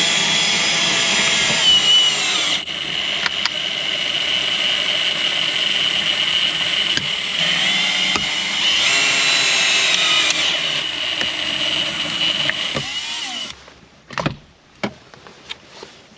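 A power tool's motor running steadily with a high whine, shifting pitch slightly now and then, and cutting off about three-quarters of the way through; a few sharp clicks follow.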